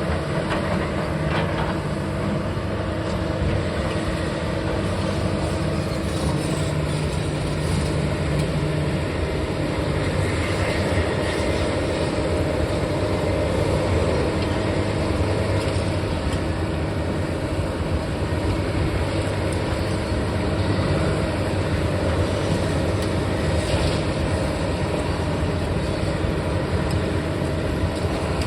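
Heavy diesel engine running steadily with a low hum, with a slight change in its pitch about nine seconds in.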